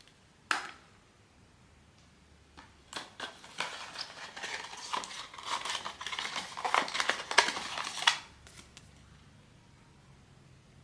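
Blind box packaging being opened and handled by hand: one sharp snap about half a second in, then about five seconds of dense rustling and clicking that stops suddenly.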